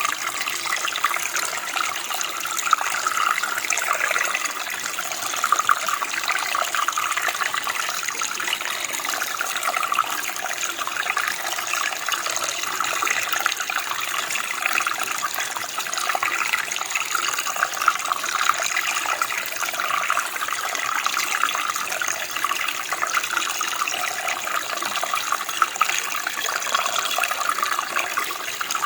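Steady running water, a small stream or creek flowing with a constant splashing babble.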